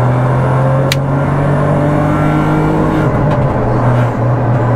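Volkswagen Polo rally car's engine, loud inside the stripped cabin, pulling under throttle with a slowly rising note that wavers and dips about three to four seconds in. A single sharp click comes about a second in.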